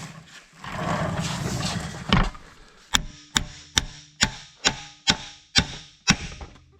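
A hammer driving a part onto a corn head row unit's splined shaft: a rough scraping, then a steady series of about eight sharp blows, roughly two a second, each leaving a short metallic ring.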